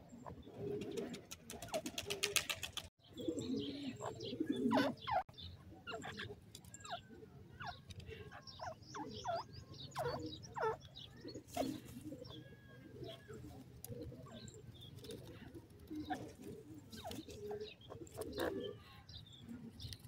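Several birds calling together: many short chirps and slurred whistles over low, soft coo-like notes. A fast rattling run of clicks comes about two seconds in.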